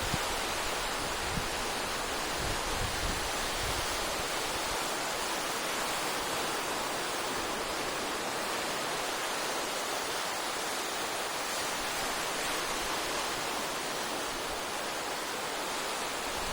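Sea waves breaking on the shore in a continuous, steady wash of surf, with a few faint low gusts of wind on the microphone in the first few seconds.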